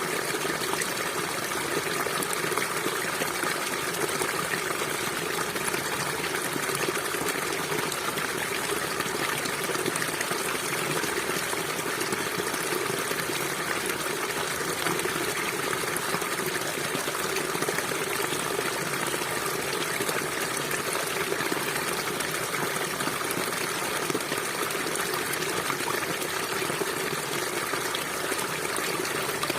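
Shallow stream of water running and babbling steadily.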